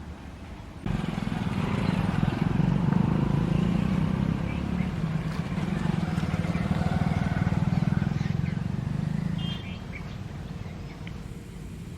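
A motor vehicle engine running close by with a steady low pulsing hum, starting abruptly about a second in and dropping away near the end, with faint bird chirps above it.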